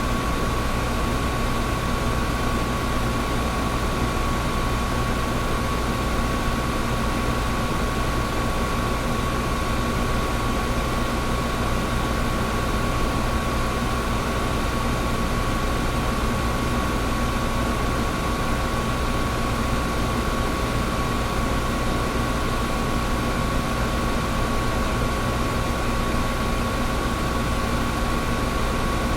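Air conditioner running steadily: an even rushing hiss with a low hum and a steady whine.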